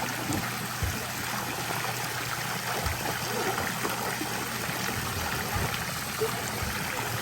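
Steady rush of running water, like a stream or water outlet flowing without pause.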